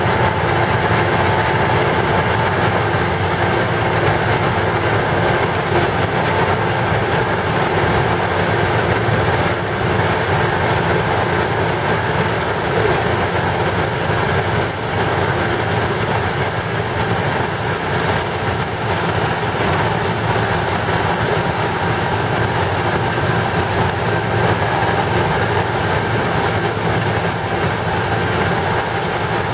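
Railway track-repair machinery running on the line: a loud, steady mechanical noise with a few faint steady tones in it, unchanging throughout.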